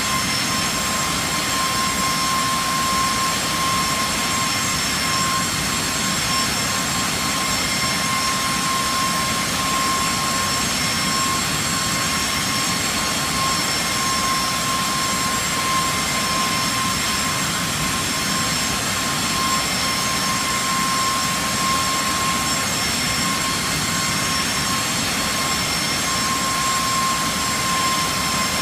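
Jet engines of a Boeing 737-800 running steadily: an even rush of noise with a thin, constant whine and fainter high tones above it.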